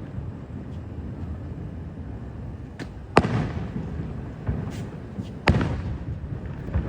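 Fireworks shells bursting: two sharp bangs a little over two seconds apart, the first about three seconds in, with a few smaller cracks around them over a steady low rumble.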